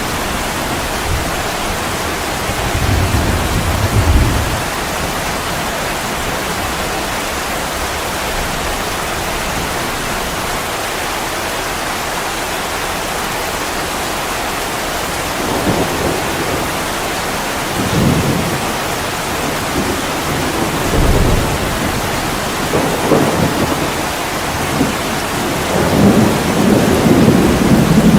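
Heavy rain falling steadily in an even hiss, with low rumbles that swell and fade several times and build toward the end.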